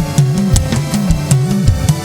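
Live church praise band playing between sung lines: a drum kit keeps a steady beat over a repeating bass line and held chords.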